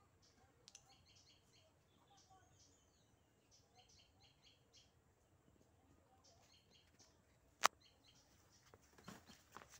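Faint, repeated short chirps of small birds, with a single sharp click about three-quarters of the way in. A few rustling, scuffling bursts start near the end as the two roosters close in.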